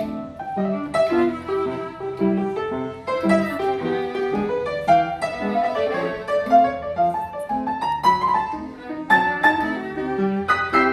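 Piano and violin playing a swing tune: the piano keeps a regular beat of low notes while the violin carries the melody above.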